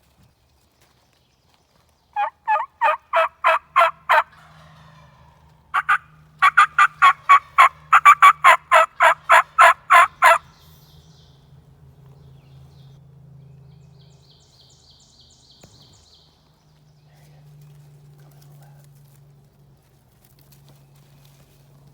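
Turkey yelping: two loud series of evenly spaced, pitched notes at about four a second. The first run is short and the second about twice as long.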